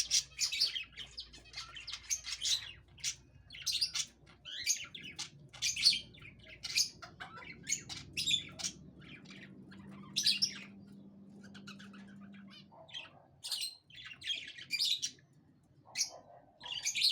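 Pet budgerigars chirping in quick runs of short, high calls, thinning out for a few seconds in the middle.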